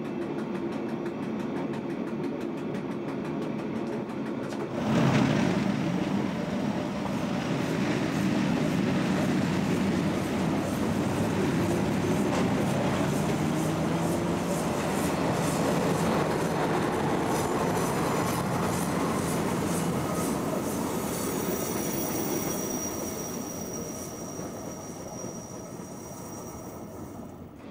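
Furka-Oberalp narrow-gauge train running on the rails with a steady rumble, louder from about five seconds in and fading toward the end. A thin, high, steady wheel squeal comes in over the last few seconds.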